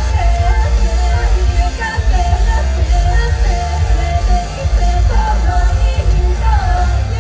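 Live band music with a sung vocal line over a heavy, steady bass.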